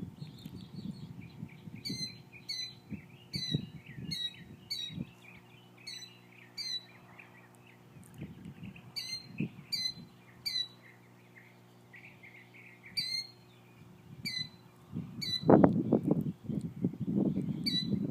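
A bird calling: runs of short, sharp, downward-sliding calls, about two a second, over a softer chattering. A loud low rumble comes in near the end.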